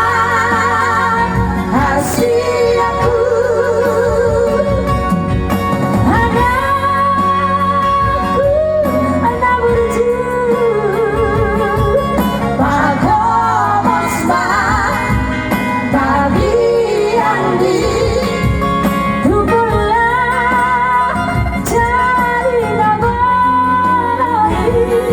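Batak song: a melody sung with strong vibrato over steady instrumental accompaniment.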